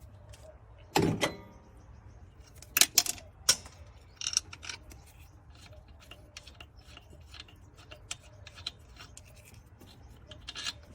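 Scattered knocks and clicks of metal tools and parts being handled under a car: a dull knock about a second in, sharp clicks around three seconds in, then light ticks and rattles over a low background hum.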